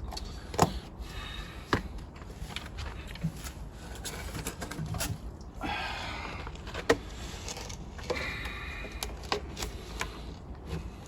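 Irregular light clicks and knocks with a few short scraping passages, as a lubricated plastic drain pipe is handled and worked into its fitting.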